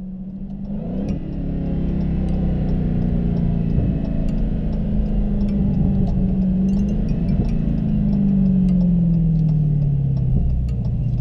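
Dodge Challenger SRT Hellcat's supercharged 6.2-litre V8 running while driving, its note climbing and dipping a few times, then falling steadily over the last few seconds as the revs come down.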